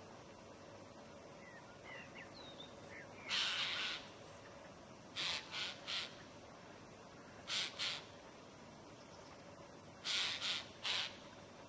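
Crows giving harsh caws, one longer call and then short runs of two or three, with a few faint high chirps from a smaller bird between them.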